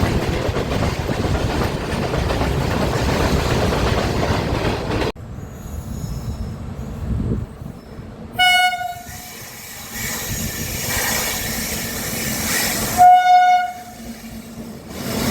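Loud, steady noise of a train running past for about five seconds, cut off abruptly, then two short blasts of a locomotive horn, a single held note each, about four and a half seconds apart, the second louder.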